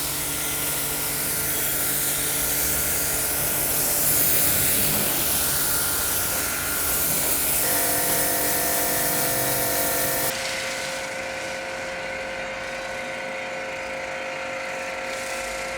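Electric pressure washer pump motor running with a steady whine while its gun sprays water or foam in a loud hiss onto a car. About ten seconds in, the spray hiss drops away and the motor's steady whine carries on.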